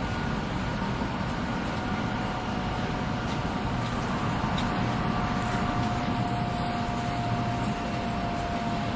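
300 Series Shinkansen running at speed, heard from inside the car: a steady rumble and rush of wheels and air, with a thin steady tone above it.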